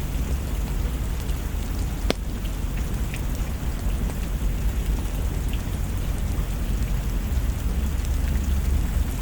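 Steady heavy rain with a deep low rumble under it. Scattered sharp ticks sound through it, one louder about two seconds in.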